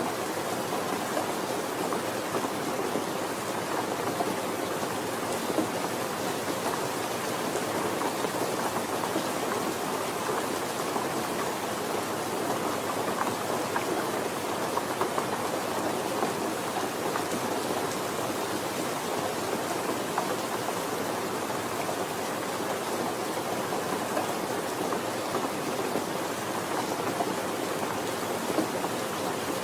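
Steady rainfall, an even patter of drops with small scattered louder hits.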